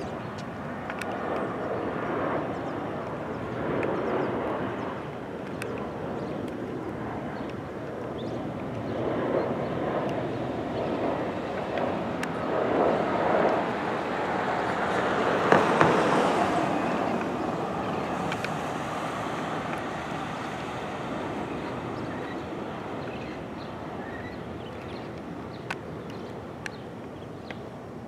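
Jet airliner passing by, its engine roar building to a peak a little past halfway and then slowly fading away.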